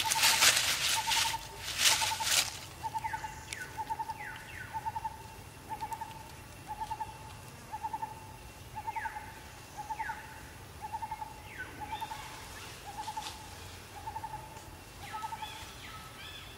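A bird calling a long, steady series of short hoot-like notes, about three every two seconds, with short falling calls now and then. In the first two seconds or so, dry leaves rustle and crackle as monkeys scuffle in them.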